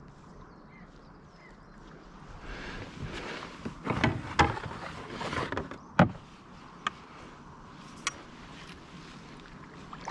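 Knocking and scraping of a canoe being boarded and pushed off, with a sharp loud knock about six seconds in and two light clicks after it.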